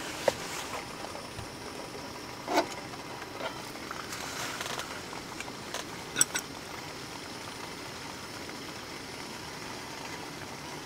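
Steady hiss of a pot steaming buns on the boil, with a few sharp clicks.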